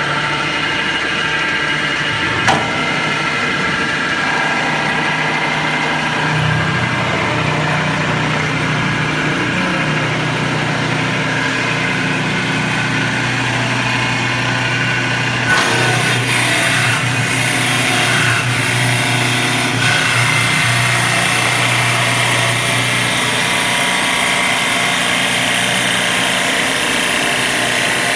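An engine running steadily. Its sound shifts about six seconds in and again about halfway through.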